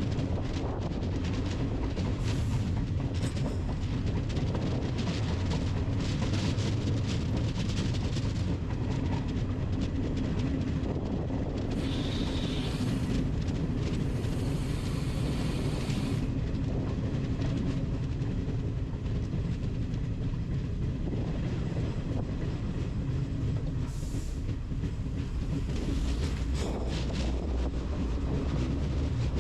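A train running on the rails: a steady low rumble with wheels clicking over rail joints, and a brief higher screech about halfway through.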